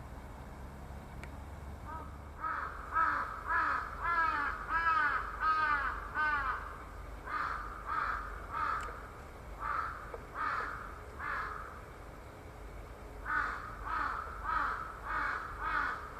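A bird calling in two long runs of repeated arched notes, about two a second, the first starting about two seconds in and the second near the end.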